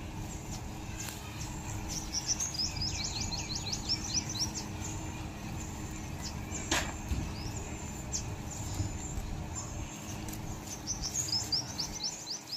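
Small birds chirping in quick runs of short, high notes, once in the first half and again near the end, over steady low background noise. A single sharp click about seven seconds in.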